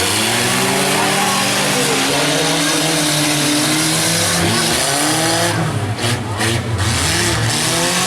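Several demolition derby compact trucks and vans running together, their engines revving up and down in overlapping, wavering pitches over a steady hiss.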